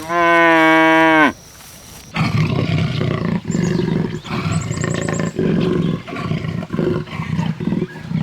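A cow moos once: a single call that rises, holds and then drops off, lasting just over a second. From about two seconds in, a tiger growls in a long run of rough, broken snarls.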